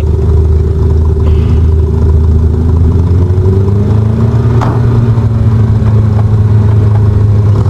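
Car engine running steadily, its pitch rising slowly around the middle, with a single sharp knock a little past halfway.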